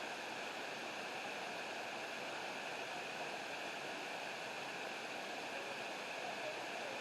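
Steady rushing of river water and a waterfall, an even hiss with no separate events.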